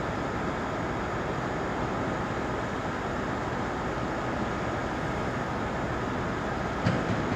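Steady hum and hiss of a JR East 719 series electric train at a station, with a faint steady whine through it and a single knock near the end.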